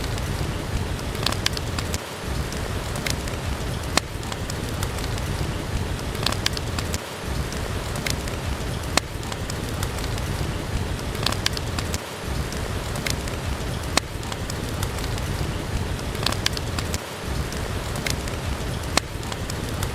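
Steady heavy rain hiss with scattered sharp pops and crackles from a wood fire burning in a fireplace.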